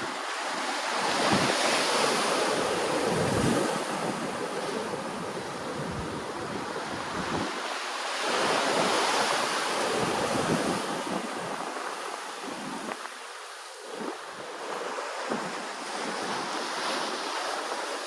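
Ocean waves washing in, the surf swelling to two louder surges, one about a second in and another around eight seconds in. Wind rumbles on the microphone underneath.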